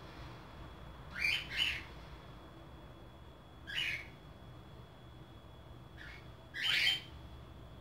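A bird squawking in short, harsh calls: two in quick succession about a second in, another near four seconds, a faint one near six, and the loudest near seven seconds.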